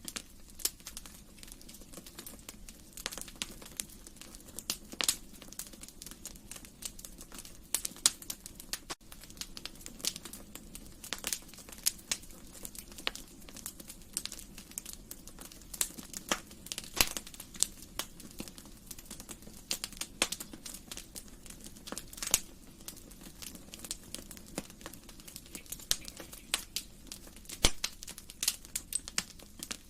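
Wood fire crackling in a fireplace: irregular sharp pops and snaps, some louder than others, over a faint steady low rush.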